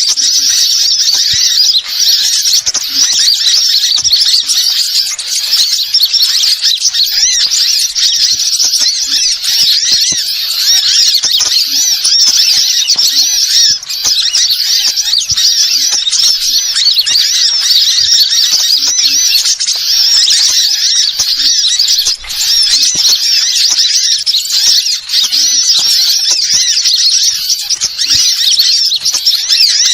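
Continuous high-pitched bird chattering and squeaking, dense and unbroken, from a lure-bird call recording played to attract wild birds.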